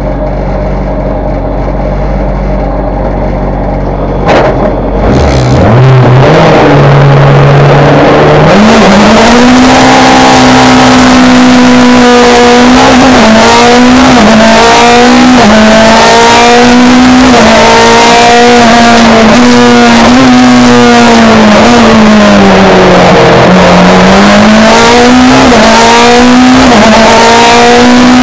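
Hill-climb competition car's engine heard from inside the cockpit: it idles steadily in neutral, then revs up for the launch about five seconds in. After that it runs hard at high revs, its pitch climbing and dropping again and again as it shifts through the gears and lifts for bends.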